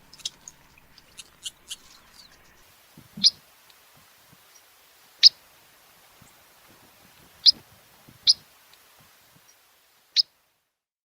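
Small birds chirping outdoors: short, sharp, high single chirps every second or two over a faint open-air background. The sound cuts off shortly before the end.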